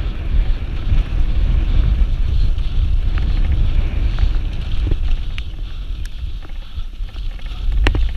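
Heavy wind buffeting on the microphone, a steady low rumble, with a few sharp clicks and knocks, the loudest near the end.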